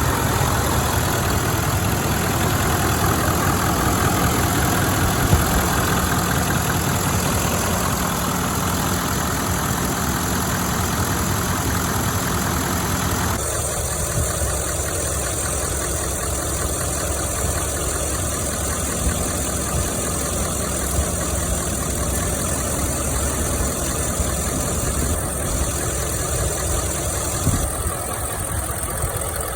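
Nissan Titan XD's Cummins 5.0-litre V8 turbo-diesel running steadily at idle. The sound changes abruptly about 13 seconds in, as if cut to a second recording of an idling engine.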